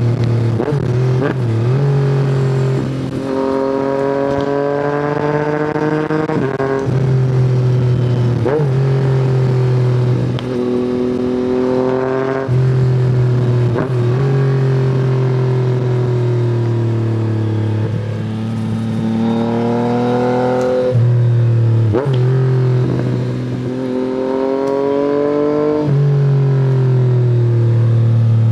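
Yamaha MT-09's three-cylinder engine through an Akrapovic exhaust, accelerating and shifting up through the gears: the pitch climbs, then drops at each shift, over several runs. Short sharp cracks come at many of the shifts.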